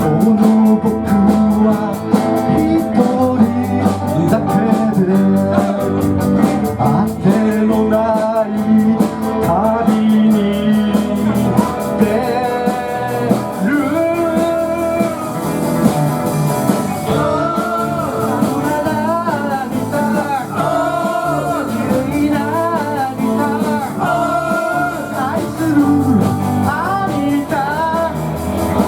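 Live band music with guitars carrying a wavering lead melody.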